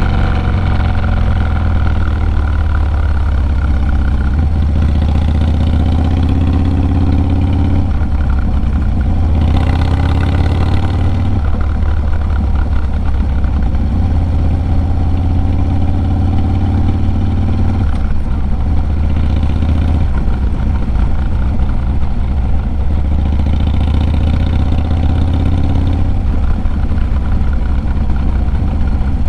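Harley-Davidson Low Rider S 110 cubic-inch V-twin running through a Sawicki Speed 2-into-1 exhaust while riding. The engine note climbs and drops several times with throttle and gear changes.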